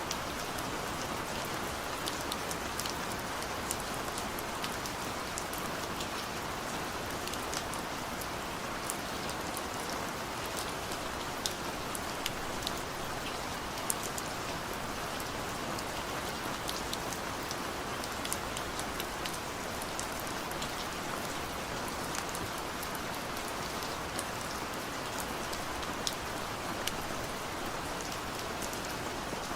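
Steady rainfall, an even hiss with many scattered sharp drop ticks landing on a surface.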